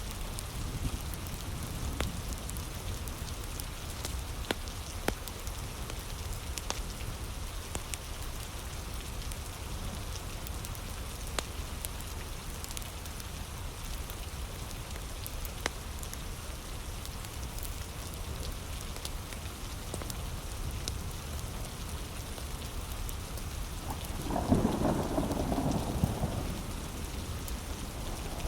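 Steady heavy rain with a wood fire crackling, its sharp pops scattered throughout. A low rumble of thunder rolls in about 24 seconds in.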